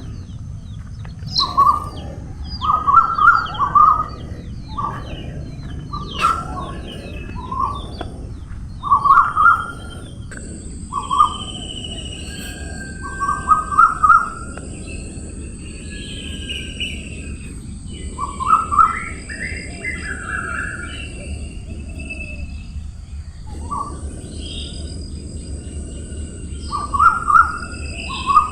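Birds calling. One bird repeats short groups of quick chirps every second or two, while others call higher and fainter between them, over a steady low rumble.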